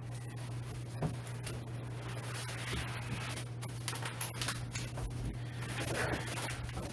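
Chair parts and their packaging being handled during unpacking: scattered scrapes and clicks, with one sharp knock about four seconds in, over a steady low hum.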